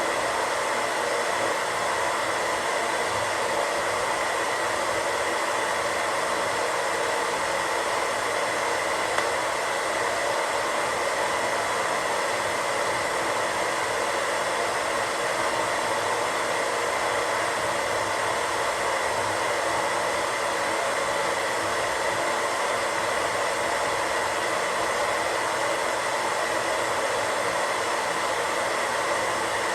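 Radio static: a steady, even hiss of untuned radio noise, strongest in the middle range, with one tiny click about nine seconds in.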